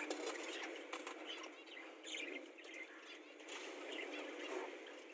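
Lovebirds chirping in short, scattered calls over a steady background hiss.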